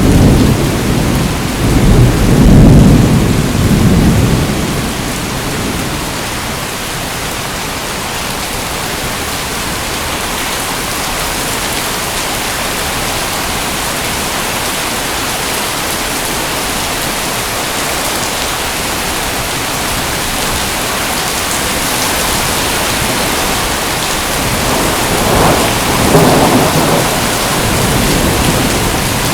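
Steady heavy rain falling, with thunder rumbling through the first four seconds or so before it fades. A second, lighter roll of thunder comes near the end.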